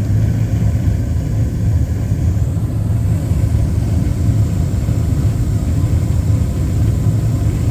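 Carrier gas furnace running, its inducer fan and lit burners making a steady low rumble. The blower motor, due to start at this stage, is not spinning, which the technician takes as a failed blower motor.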